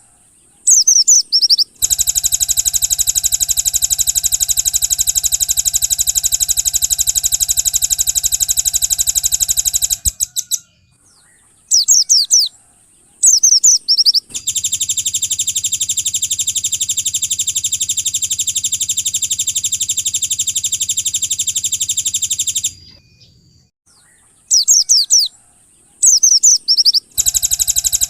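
Recorded bird song of the kind used to train white-eyes: short, high, descending chirp phrases alternating with two long, very fast buzzing trills of about eight seconds each.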